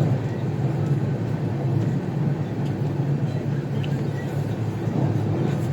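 Steady low rumble of the August Kranti Tejas Rajdhani Express running on the rails.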